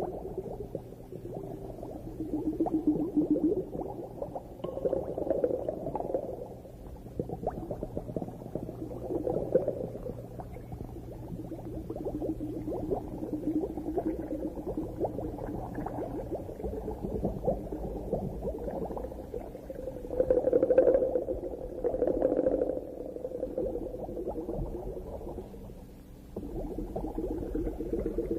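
Underwater bubbling and gurgling heard through the water, swelling and fading every few seconds, with a low steady hum under it for the first half.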